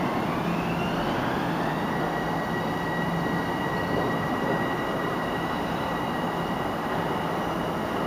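Metro-North electric multiple-unit commuter train pulling away, its motors giving a whine that rises in pitch over the first couple of seconds and then holds steady, over the train's steady running noise.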